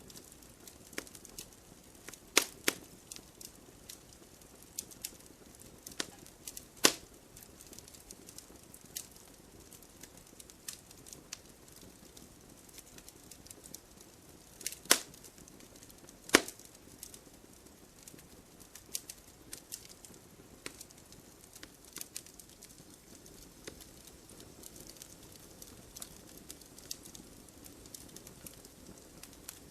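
Firewood burning and crackling: irregular sharp pops and snaps, a few much louder than the rest, over a soft steady hiss of the fire.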